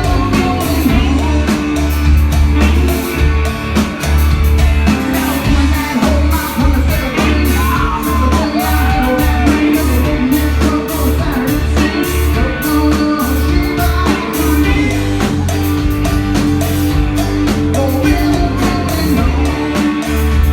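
Rock music: a band with singing, guitar and drums playing to a steady beat.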